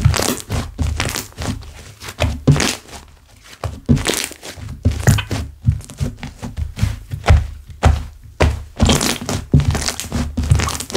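Slime being squished, pressed and stretched by hand: a quick irregular series of soft thunks with crackling and popping of air bubbles in the slime.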